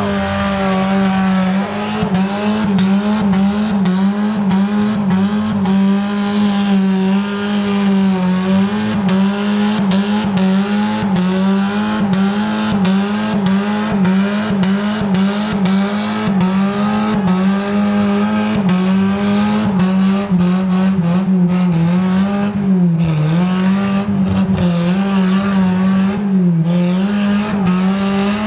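Off-road 4x4's engine held at high revs for a long stretch, its pitch wavering and dipping briefly twice near the end, with short knocks throughout.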